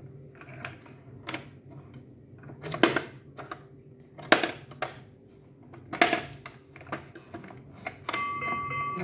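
Hard plastic toy pieces being handled, giving irregular sharp clicks and knocks, the loudest about three, four and six seconds in. Near the end a steady electronic tone starts from the toy.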